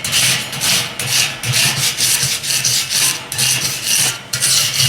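Stainless-steel-bristled wire brush scrubbing a stainless steel cooking grate back and forth, about two rasping strokes a second, cleaning off burnt-on residue.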